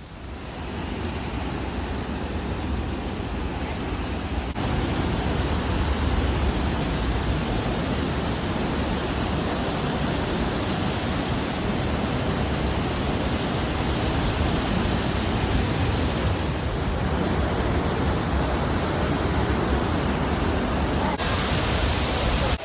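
Steady roar of a waterfall at close range, an even rushing noise that steps up louder about four and a half seconds in.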